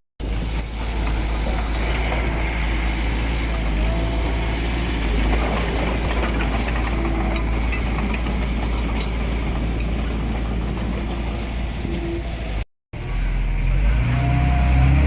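Heavy diesel engine of earthmoving machinery running steadily. There is a short dropout about 13 seconds in, and after it the engine sounds louder.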